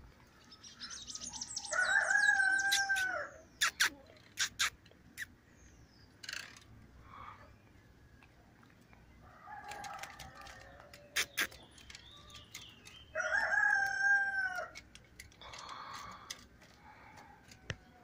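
Birds calling: two long calls of about a second and a half each, a couple of seconds in and again about two-thirds through, with higher wavering notes over the first. Short chirps and a few sharp clicks fall in between.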